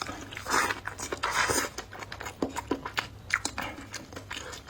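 Close-miked chewing and mouth sounds of a person eating: wet clicks and smacks throughout, with a denser, noisier stretch of chewing from about half a second to nearly two seconds in.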